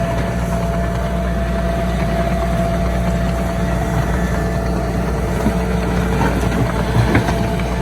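Heavy diesel earthmoving machinery running steadily with a low engine hum, with a few short knocks about seven seconds in.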